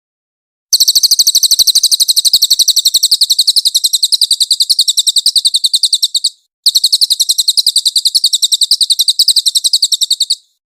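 A cililin songbird singing a long, loud, rapid trill of high, evenly repeated notes, about ten a second. The trill breaks off briefly about six seconds in, then resumes for another four seconds.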